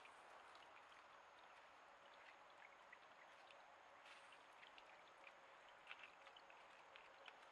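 Faint, steady rush of water with many small scattered ticks and drips.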